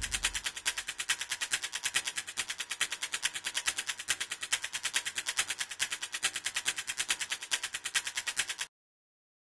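A rapid, even clicking, about ten clicks a second, that cuts off suddenly near the end.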